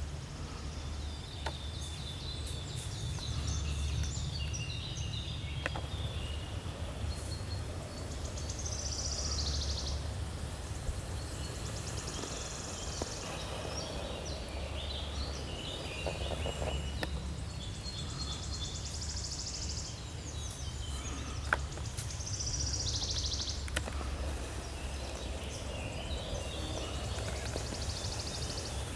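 Forest birdsong: several small birds chirping and trilling, one of them repeating the same quick falling song phrase twice, over a steady low rumble.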